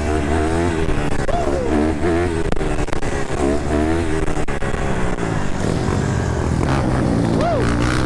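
Dirt bike engine running under riding load, its pitch rising and falling as the throttle is worked, with a couple of quick revs up and back down.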